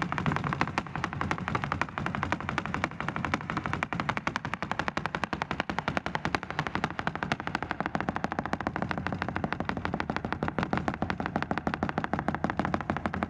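A rapid, even train of sharp percussive strikes, about ten a second, over a steady low hum.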